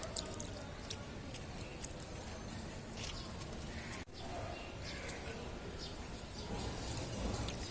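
Steady outdoor background noise with a few faint bird chirps and scattered small clicks.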